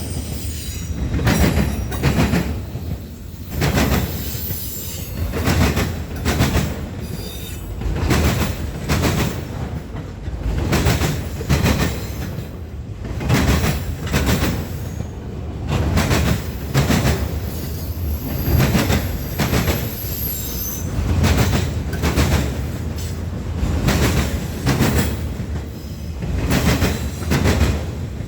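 Railroad cars rolling past, the wheels clacking over rail joints at a steady rhythm of about one clack-group every second and a half to two seconds over a continuous rumble. A faint high wheel squeal comes in about two-thirds of the way through.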